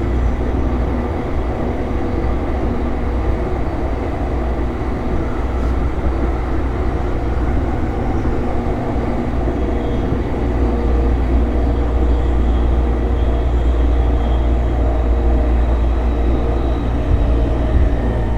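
JR East E233-series electric train running at speed, heard from inside the car: a steady rumble of wheels on rail and traction-motor noise. A thin whine comes in near the end.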